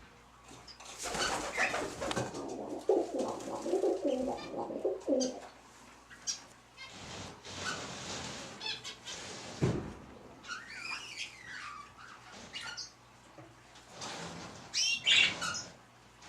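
Birds flapping their wings in a flurry for the first few seconds, mixed with low calls, then a few short chirping calls near the middle and again near the end.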